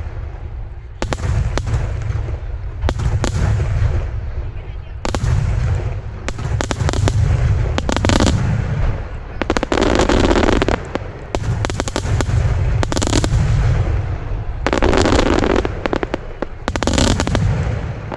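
Starmine fireworks barrage: shells bursting in quick succession over a continuous low booming rumble. Dense crackling bursts rise up several times in the middle and near the end.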